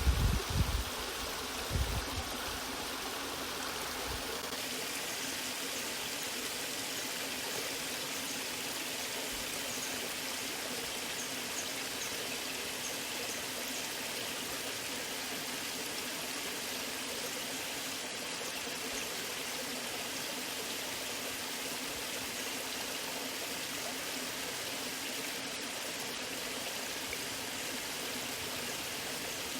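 Natural waterfall: water rushing and splashing in a steady, even hiss. A few deep thumps come in the first couple of seconds.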